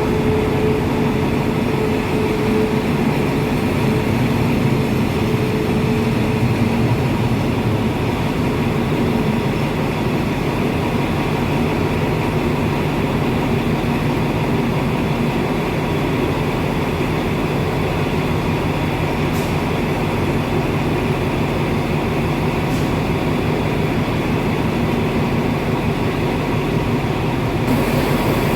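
A train running on the track, a loud steady rumble throughout, with a humming tone that fades out over the first few seconds.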